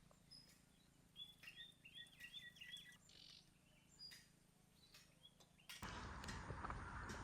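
Faint outdoor quiet with a bird calling: a quick run of about four notes between one and three seconds in, with scattered faint chirps around it. Near the end a louder, steady rushing noise cuts in abruptly.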